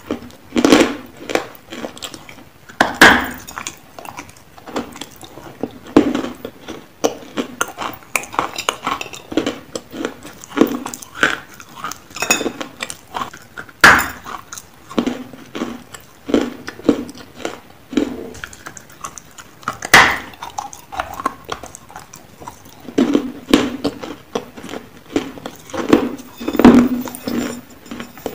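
Close-up biting and chewing of dry chunks of white edible clay (nakumatt): irregular sharp crunches, several a second, with the loudest bites about 3, 14, 20 and 27 seconds in. Light clinks of a stainless steel bowl mix in.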